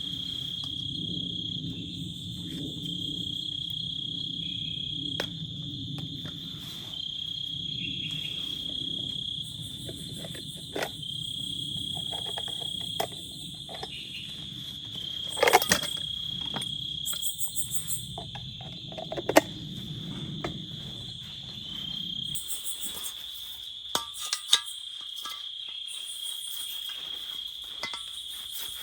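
Crickets trilling steadily in a high, even tone that swells every couple of seconds. Underneath runs a low steady noise that stops about three quarters of the way through, and a few sharp knocks come in the middle.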